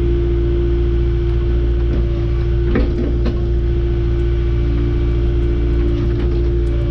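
Diesel engine of a piece of earthmoving equipment running steadily under work, with a couple of short knocks about three seconds in.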